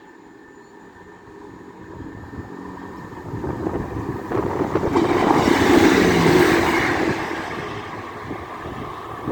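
A train passing over a level crossing. It grows louder over several seconds, is loudest about six seconds in, then fades away.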